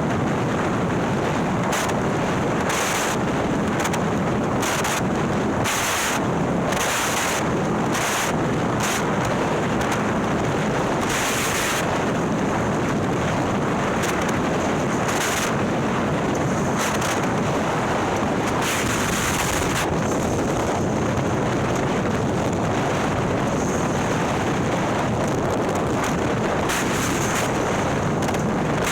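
A Harley-Davidson Milwaukee-Eight V-twin, bored out to 130ci and fitted with a ThunderHeader exhaust, running steadily at road speed, heard through heavy wind rush on the microphone. Short hissing gusts recur through the first half.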